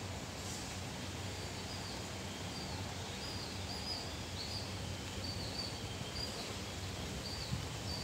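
A bird repeating a short high call a dozen or so times, each note dipping slightly in pitch, over a steady outdoor hiss.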